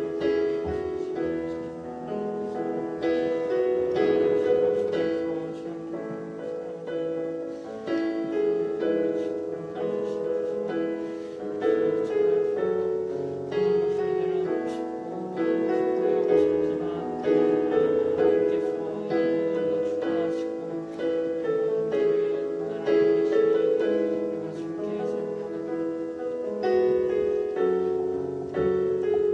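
Soft piano music, slow sustained chords with gentle single notes, playing as a background for silent prayer.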